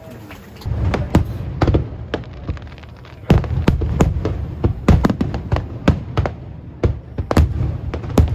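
Aerial firework shells bursting in rapid succession: many sharp bangs and crackles over a low booming rumble. The barrage starts under a second in and grows heavier about three seconds in.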